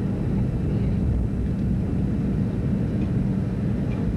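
Steady low rumble of a DC-9 airliner's rear-mounted Pratt & Whitney JT8D jet engines and air noise at high power, heard from inside the passenger cabin.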